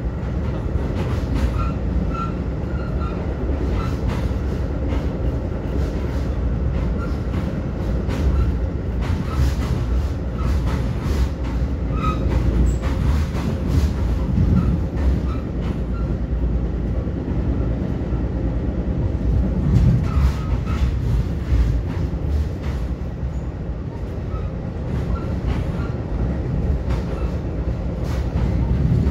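Metra commuter train running at speed, heard from inside a passenger car: a steady low rumble with wheels clicking over rail joints and brief light squeaks.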